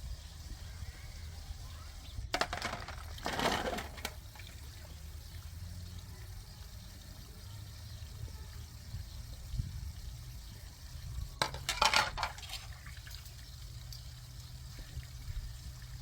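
Water sounds: two short bursts of splashing or pouring, about two seconds in and again near twelve seconds, over a steady low hum.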